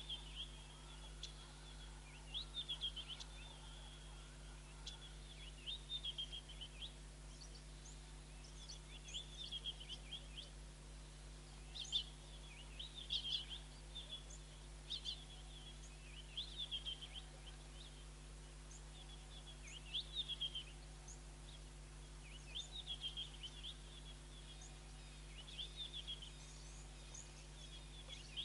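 Wild birds singing, with short chirping phrases every second or two over a steady low hum.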